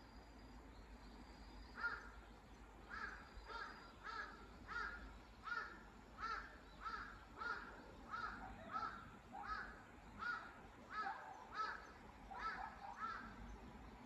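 A bird calling over and over in a long, regular series of short calls, about one and a half a second, starting about two seconds in and stopping shortly before the end.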